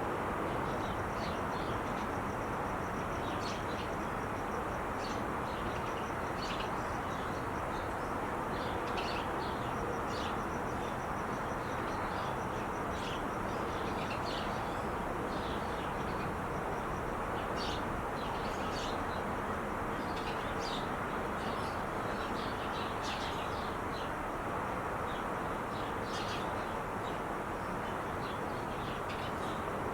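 Steady roar of traffic on the 5 freeway, with small birds chirping in short, repeated calls over it.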